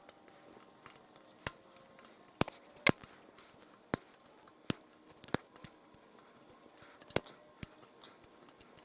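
About eight short, sharp metallic clicks and clinks, spread irregularly: hand tools and parts knocking together during the teardown of a small-block V8.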